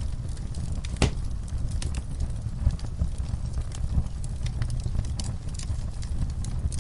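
Wood fire crackling in a fireplace: irregular sharp pops and snaps over a steady low rumble of flames, with one louder pop about a second in.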